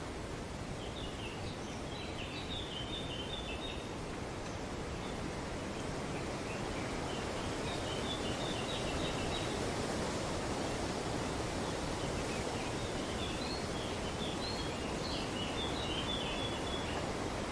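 Steady wind rustling through tree foliage, with three bouts of high, harsh chattering calls from rainbow lorikeets in the leaves.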